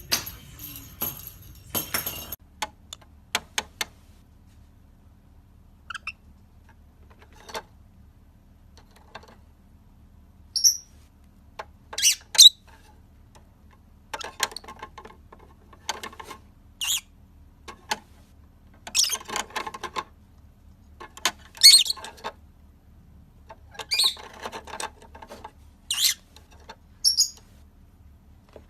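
Bird calls: short, sharp squawks and chirps coming singly or in quick pairs at irregular intervals, with quiet gaps between them. A few seconds of music with a jingling beat cut off just after the start.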